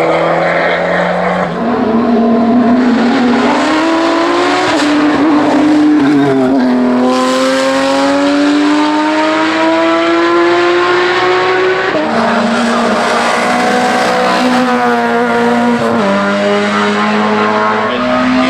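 Race car engine at full throttle on a hillclimb, its pitch climbing steadily and then dropping sharply at each of several gear changes.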